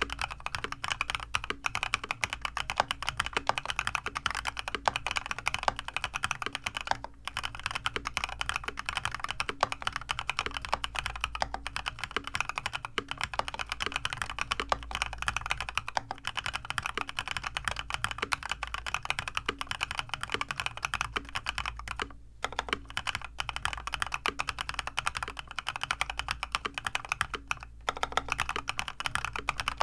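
Fully lubed, tape-modded mechanical keyboard being typed on quickly in a typing test. Its soldered switches are lubed with Krytox 205g0, the springs with Krytox 105 and the stabilizers with Permatex. The keystrokes run as a dense, continuous patter with three short breaks.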